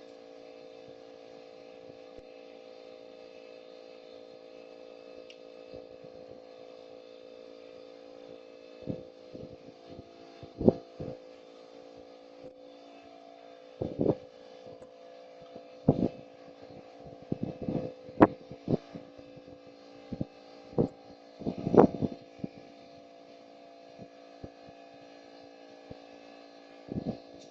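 Steady mechanical hum of several fixed tones, with a scattered run of short knocks and clunks starting about nine seconds in, like parts or tools being handled.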